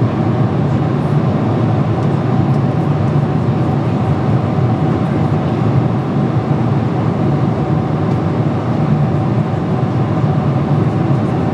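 Steady cabin noise of a Boeing 747-400 airliner in cruise: a deep, even drone of airflow and engines with a thin steady whine on top.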